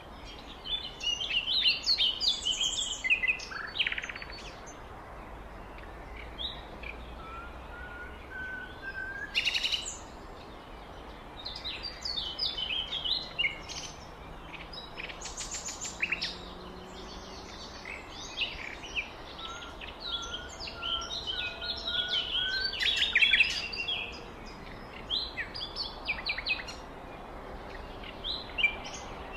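Songbirds chirping and singing in overlapping bursts of short, high calls and trills, with a few longer whistled phrases, over a faint steady hiss.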